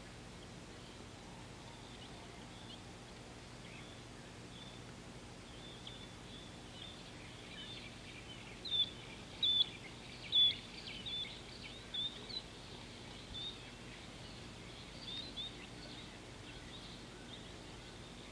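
Birds calling with short, high chirps, a quick run of them in the middle, over a faint steady background hiss.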